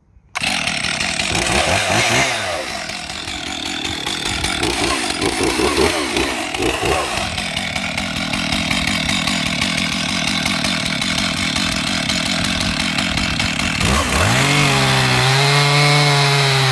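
Chainsaw on a chainsaw mill running steadily under load as it cuts along a log. About fourteen seconds in the engine note slides low and then climbs to a steady higher pitch. The sound starts and stops abruptly.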